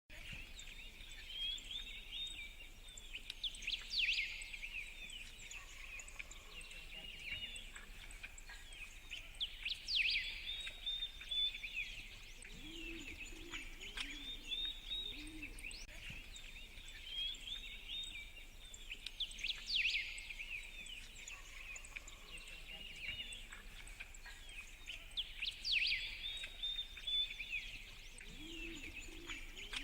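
Forest bird chorus: many small birds chirping and trilling, with sharper calls standing out every few seconds. The same passage repeats about every sixteen seconds, like a looped ambience track.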